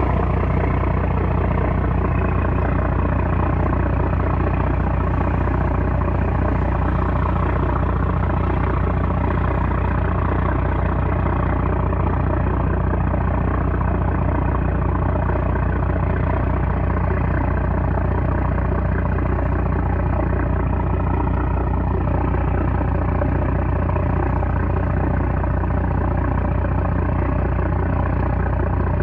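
Small trawler's 330-horsepower diesel engine running steadily at an even speed, a loud, unchanging drone.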